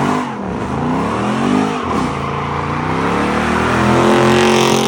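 Car engine revving hard as the car accelerates away: the pitch rises and drops twice in the first two seconds, then climbs steadily and is held high near the end.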